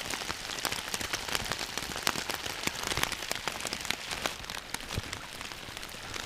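Steady rain falling, an even patter with many sharp raindrop hits landing close by at irregular moments.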